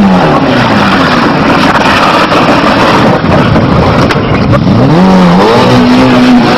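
Rally car engine at high revs. Its pitch drops at the start, there is a rough noisy stretch in the middle, and it revs up again about five seconds in and holds.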